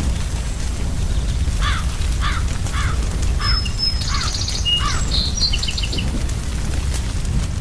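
Birds calling over a steady low rumble: six like calls repeated about every half second, with higher chirps and a short trill from a second bird in the middle.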